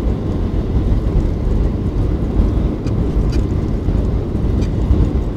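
Steady low rumble of a Boeing 737-800 airliner, with a few faint clicks over it.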